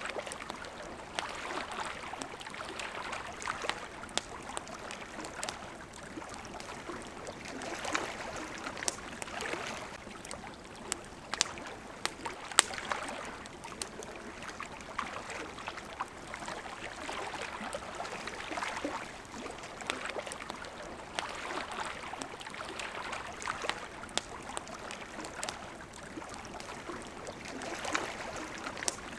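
Small waves lapping at a shore, the wash rising and falling every few seconds, with the sharp, irregular pops and crackles of a wood campfire over it.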